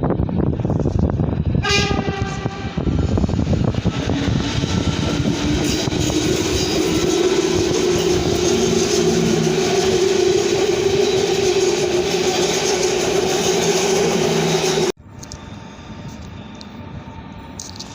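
A train horn gives a short blast about two seconds in, then a train runs through close by with a loud, steady whine. The sound cuts off abruptly about three seconds before the end, leaving quieter background noise.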